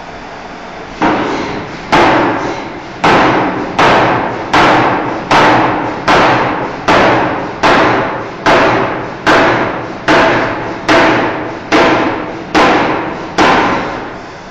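A forging hammer striking a steel bar in a steady rhythm, about sixteen heavy blows a little over one a second, each ringing out before the next. A steady machine rumble runs underneath.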